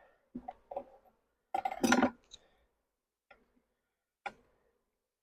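Short knocks and clicks of a metal hive tool and wooden hive frames being handled during a hive inspection. There are about six separate hits, the loudest cluster about one and a half to two seconds in.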